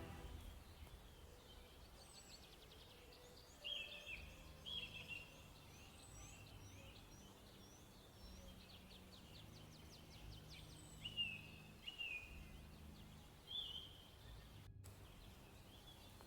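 Faint birdsong: short down-slurred chirps and quick trilled runs of notes, repeated at intervals.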